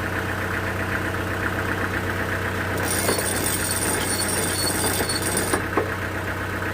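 Sawmill engine running steadily with an even knocking rhythm. About three seconds in, a high hiss joins for roughly three seconds, then cuts off sharply.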